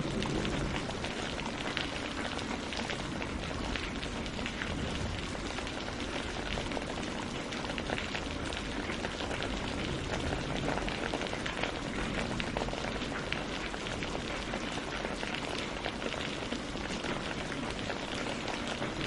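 Steady rain falling on tree leaves and lake water: a dense, even patter of many small drops.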